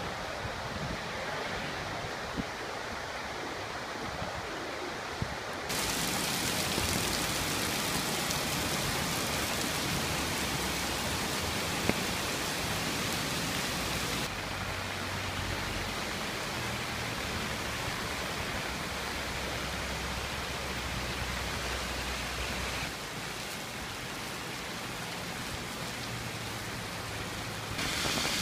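Steady rush of water in a flood, its sound changing abruptly a few times, about 6, 14 and 23 seconds in.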